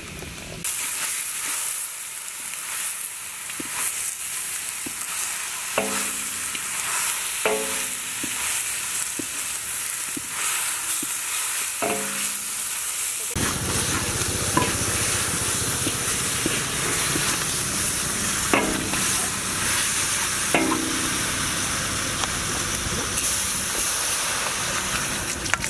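Snakes sizzling as they hit hot oil in a wok, then frying steadily while being stirred, with a few short scrapes of the spatula against the wok. The frying turns louder and fuller about halfway through.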